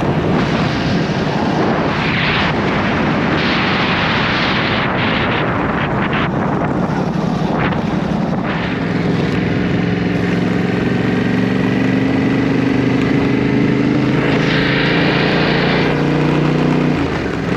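Motorcycle being ridden: rushing wind noise over the microphone, then from about halfway a steady engine note that climbs slowly in pitch as the bike pulls.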